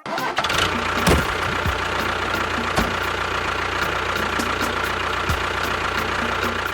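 A vehicle engine running steadily, with a low hum and a faint, regular ticking. It starts abruptly and cuts off abruptly.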